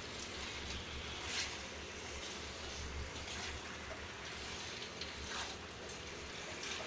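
Raw chicken pieces sizzling in onion and ginger-garlic paste in a steel kadhai as they are stirred with a silicone spatula: a steady hiss with a few soft scrapes.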